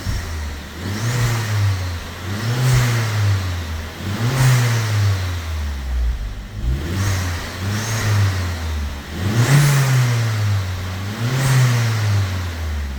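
Vauxhall Corsa VXR Nurburgring Edition's 1.6-litre turbocharged four-cylinder revved at standstill about seven times, the note rising and falling every one and a half to two seconds. It comes through the standard factory exhaust and sounds rather dead.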